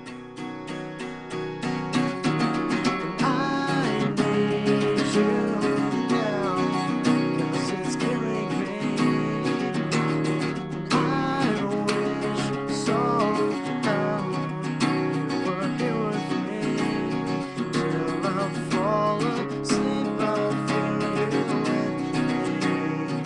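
Acoustic guitar strummed steadily in a slow rock ballad, swelling louder over the first couple of seconds.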